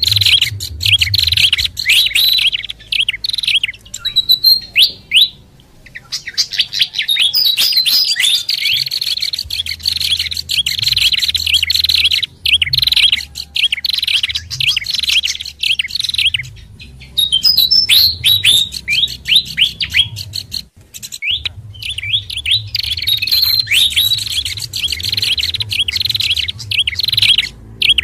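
Bird-lure recording of small songbirds: a dense run of rapid, high chirping and chattering notes with a few brief pauses. The mix layers calls of a sikatan kipas (pied fantail), a pelanduk bukit (babbler) and a prenjak kepala merah, played to draw wild birds in.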